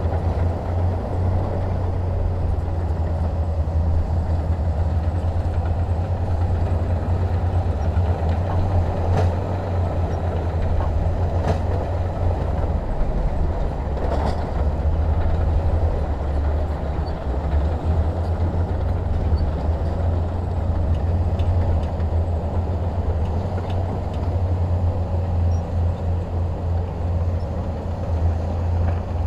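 Heavy diesel engine running steadily with a deep, unbroken rumble, with a few faint knocks in the middle.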